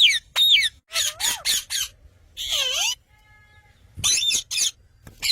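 Parrot squawking: short, harsh calls that fall in pitch, coming in quick clusters of two to four, with one longer wavering call about two and a half seconds in.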